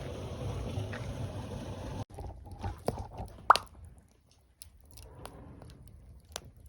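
A steady low rumbling noise that cuts off abruptly about two seconds in, followed by a wood campfire crackling: scattered sharp pops and snaps, the loudest one about halfway through, with short quiet gaps between them.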